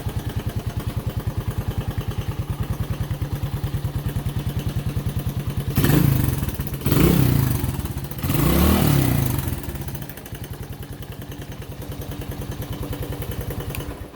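1982 Honda XL125R's single-cylinder four-stroke engine idling with an even beat, revved three times starting about six seconds in, the third rev the longest, then settling back to idle.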